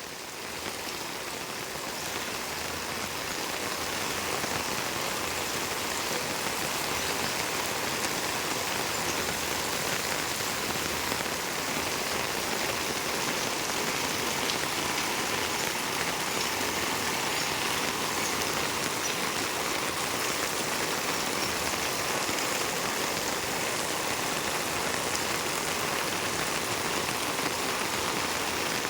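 Steady rain falling, an even hiss that grows a little louder over the first few seconds and then holds.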